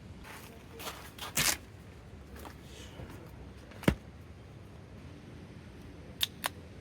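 A few scattered clicks and knocks over a quiet background: a short cluster about a second in, one sharp click near the middle, and two quick clicks near the end.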